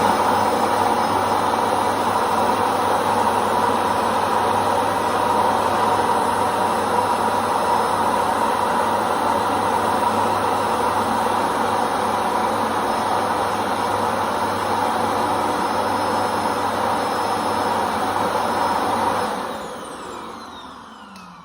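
Ecovacs Deebot N8+ auto-empty station's suction motor running loud and steady as it sucks the dust out of the docked robot's bin. Near the end it switches off and winds down with a falling whine.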